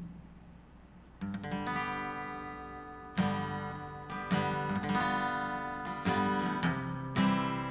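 Acoustic guitar strumming chords. It starts about a second in, with a fresh strum roughly once a second and each chord left to ring.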